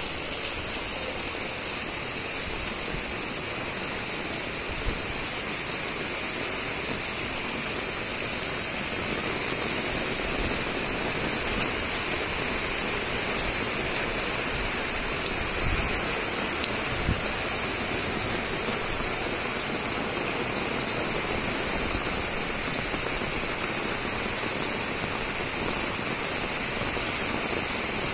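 Heavy rain pouring steadily in a downpour, a dense even hiss of drops on a concrete rooftop and the surrounding trees, with a few faint ticks of single drops. It grows a little louder about a third of the way in.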